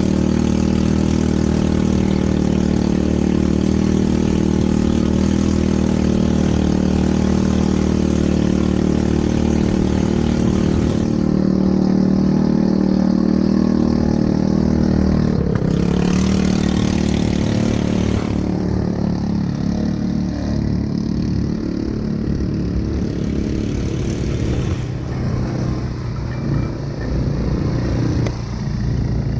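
ATV engine running steadily, easing off and running a little rougher past the middle.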